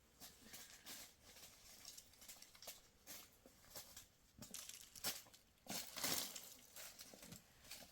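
Faint rustling and crinkling of handled material, with scattered short scrapes, loudest about six seconds in.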